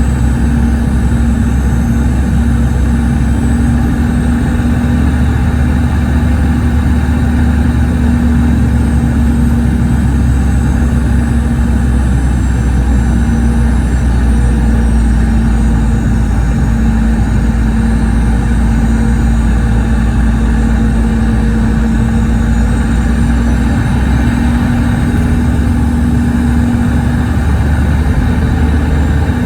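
Boeing 717's rear-mounted Rolls-Royce BR715 turbofan engines running steadily, heard inside the rear cabin as a loud drone with a steady low hum and a deep rumble.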